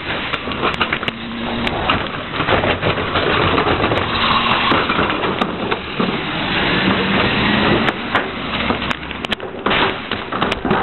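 Rear-loader garbage truck (Heil 5000 body) running, a steady engine drone with scattered sharp clanks.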